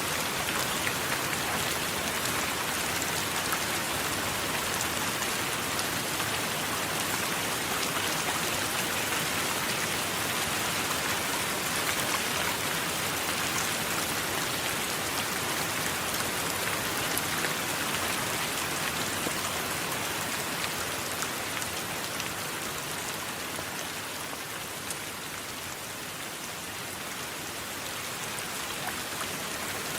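Steady rain falling and pattering on a surface, a dense even hiss with fine drop ticks, easing slightly for a few seconds near the end.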